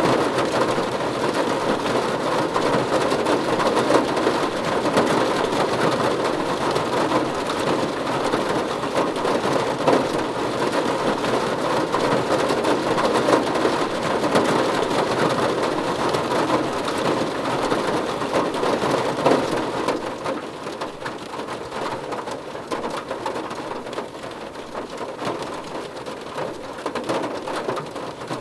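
Heavy rain pouring steadily, a dense patter of drops, easing slightly about twenty seconds in.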